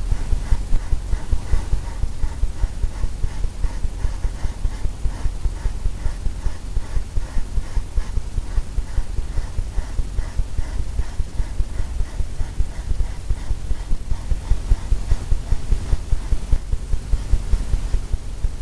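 Quick, even strokes of a painting tool on a stretched canvas, about four a second, each giving a dull knock as it works wet oil paint into the wave foam.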